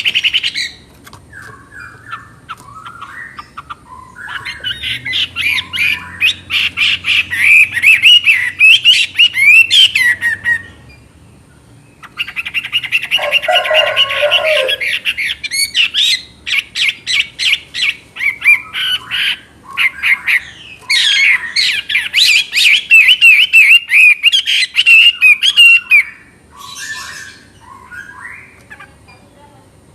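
Chinese hwamei singing: loud, rapid, varied whistled phrases delivered in three long bursts, with quieter calls in between. A lower, shorter call comes in about thirteen seconds in.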